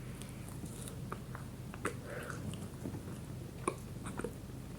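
Quiet biting and chewing of a Subway Footlong cheese bread dipper, heard as scattered small clicks and soft crackles of mouth noise.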